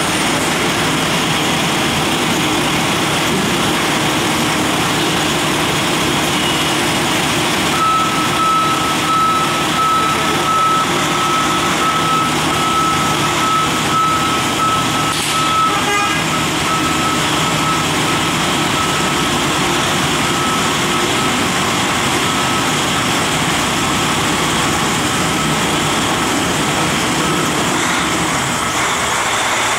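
Semi truck's diesel engine running steadily, with a reversing alarm beeping repeatedly from about eight seconds in, as the truck backs up.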